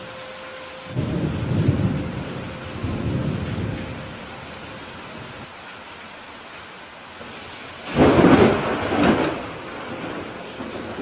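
Steady rain falling during a thunderstorm. Low thunder rumbles about a second in and rolls on for a few seconds, then a louder, sharper thunderclap comes near the end, cracking twice in quick succession.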